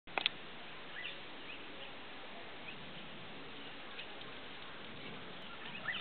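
Short, faint bird chirps every second or so over a steady background hiss, with two sharp clicks, the loudest sounds, right at the start.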